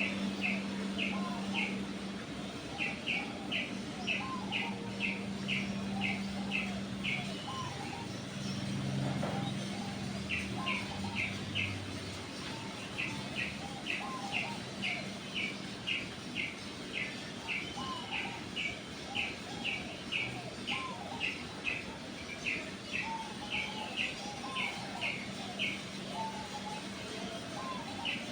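Birds chirping: a short high chirp repeated two to three times a second in runs with brief gaps, over softer calls lower down and a steady low hum.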